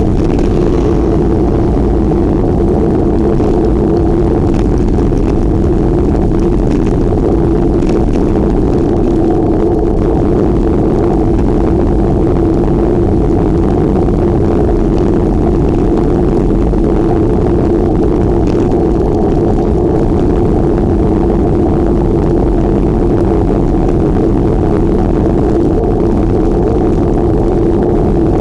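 Steady wind and riding noise on a microphone carried on a moving bicycle, a loud unbroken low rumble with a constant hum in it.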